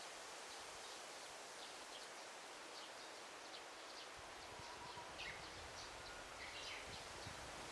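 Faint forest ambience: a steady hiss of rustling leaves with many short, high bird chirps scattered throughout, busiest in the second half.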